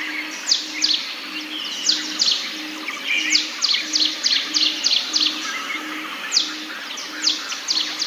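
Forest birds singing and calling: sharp, high downward-sweeping notes, sometimes in quick runs of four or five, over a dense background chorus, with a low pulsing note repeating two or three times a second.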